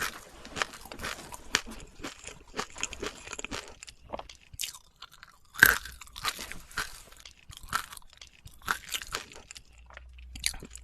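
Crunching and chewing of crisp food, a run of sharp crackling bites with a pause and then the loudest crunch about halfway through.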